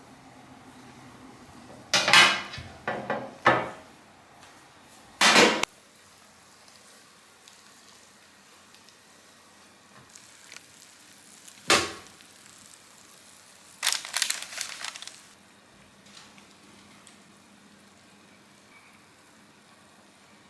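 Short clattering knocks of hard objects being handled, in a few separate groups: a cluster of several, a single longer clatter, one sharp knock, then a rattling run, over a low steady background.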